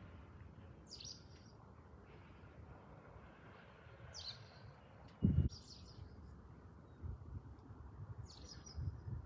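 Small birds chirping, four or five short high calls spread out, over a low rumbling background. A brief thump, the loudest sound, comes about five seconds in.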